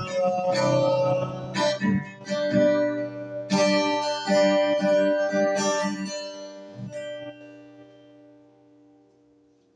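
Instrumental ending of a worship song: guitar strums chords over sustained pads, then a final chord rings out and fades away over the last few seconds.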